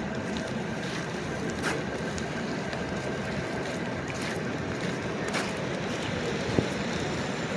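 Steady city street noise of traffic, with a few faint clicks and one sharp knock about six and a half seconds in.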